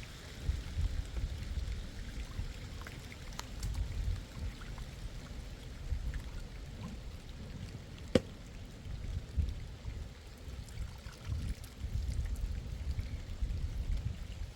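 Heavy rain falling, with gusting wind buffeting the microphone in a low, uneven rumble. A single sharp tap sounds about eight seconds in.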